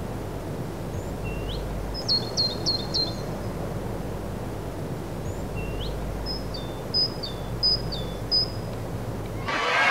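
A songbird singing two short phrases a few seconds apart. Each is a quick upslurred note followed by a run of short high notes, over a steady low outdoor background rumble.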